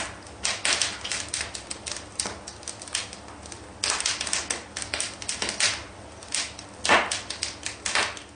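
Wood fire crackling in a fireplace: irregular sharp cracks and pops, some in quick clusters, the loudest about seven seconds in.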